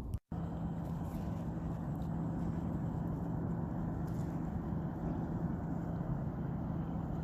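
Steady road and engine noise of a car driving, heard from inside, with a steady low hum; the sound drops out briefly right at the start.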